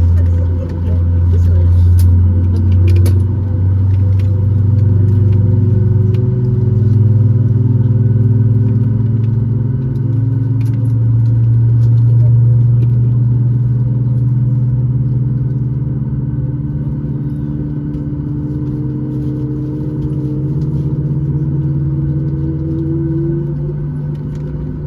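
Boeing 737 MAX 8's CFM LEAP-1B jet engines heard from a cabin seat just behind the wing: a loud, steady low drone with engine tones slowly rising in pitch. Light cabin rattles sound in the first few seconds.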